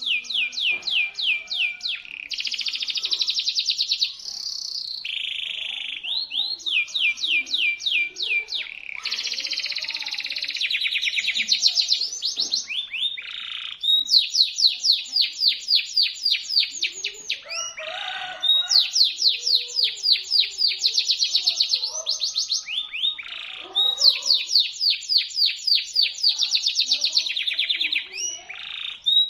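Domestic canary singing shrill, rapid trills: long phrases of fast, sharp repeated notes, one phrase following straight on from another with only brief breaks.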